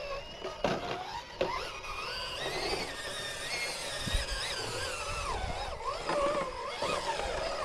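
Electric motor and gear drive of an RC rock crawler whining, the pitch rising and falling as the throttle is worked, with a couple of sharp clicks in the first second and a half.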